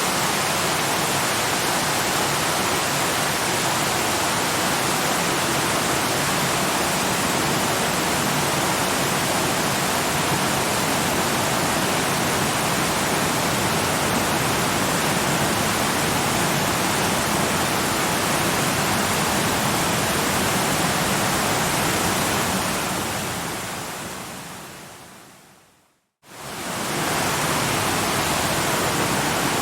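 Steady rush of a waterfall, fading out to silence over about three seconds near the end, then fading quickly back in.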